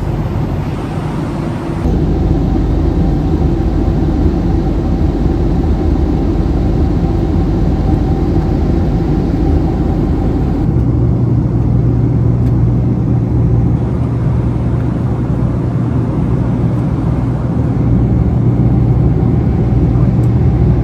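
Steady rumble inside an airliner cabin, the noise of the Boeing 767-300's engines and airflow. A low steady hum joins in about ten seconds in.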